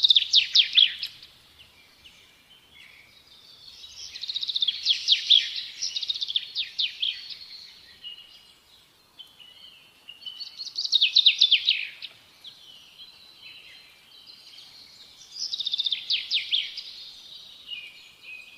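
A songbird singing: four bursts of quick, high chirping notes, each run of notes sweeping downward, a few seconds apart.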